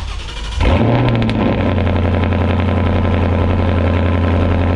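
Ford Mustang GT's 5.0 Coyote V8 with a loud aftermarket exhaust firing up on a cold start. About half a second in it catches suddenly, flares up for about a second, then drops and settles into a steady, loud, deep cold-start idle.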